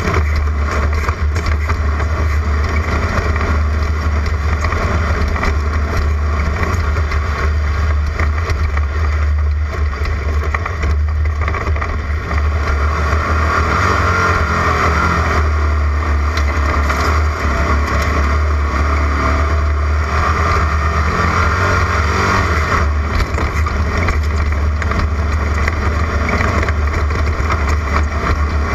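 Air-cooled VW Beetle flat-four engine running hard under race load over rough ground, with a steady deep rumble and a rushing noise that swells twice, around the middle and again a little later.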